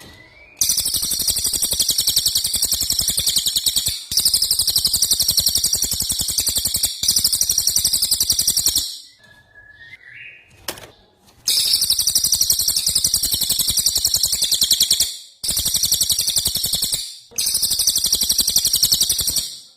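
Songbird singing the rapid rattling 'rol tembak' trill, the fast run of repeated notes that masteran tracks are played to teach caged songbirds. It comes in six high, evenly pulsed bursts of two to three and a half seconds, with a longer pause about halfway through.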